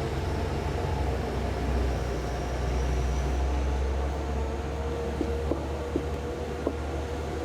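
A steady low machine hum with a faint steady whine above it, and a few light clicks in the second half.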